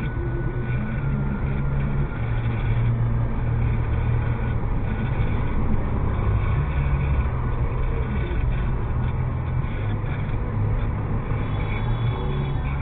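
Suzuki Jimny JB74's 1.5-litre four-cylinder engine running under way, with road noise; the engine note shifts up and down a few times.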